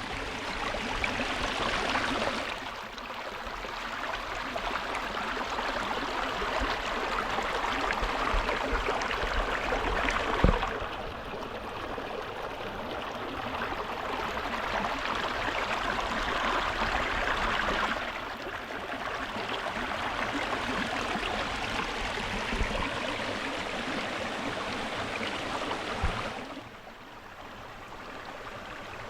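Mountain stream rushing and splashing over rocks, a steady water noise whose loudness and tone shift every several seconds. There is a short sharp knock about ten seconds in and a fainter one near the end.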